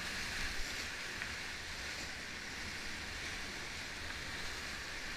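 Steady rushing of river water around a raft, an even hiss, with a low flutter of wind buffeting the microphone.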